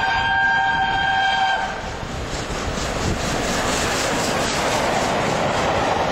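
Three-cylinder A1 Pacific steam locomotive 60163 Tornado whistling a held, multi-toned note that cuts off under two seconds in, then the loud rush of the locomotive and its train passing at speed, with a fast, regular beat.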